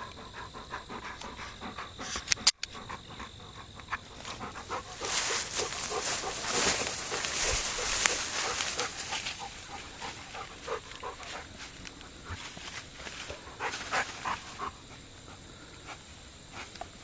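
Golden retriever panting and moving about, with a sharp click about two and a half seconds in.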